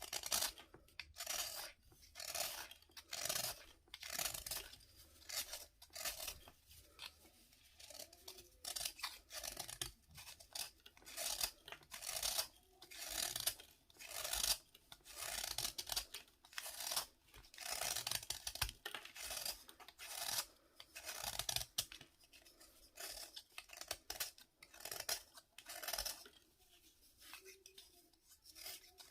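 A dry, crumbly bath fizzer being cut and crushed, making repeated gritty scraping strokes roughly one or two a second, with quieter gaps near the end.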